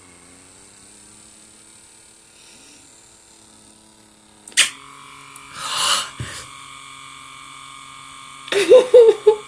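Small electric motor of a handheld pore-vacuum (suction blackhead remover) humming faintly at its lowest suction setting. A click a little past four seconds in, after which the hum grows stronger with a higher whine, then a short hiss; near the end a brief vocal sound from the user.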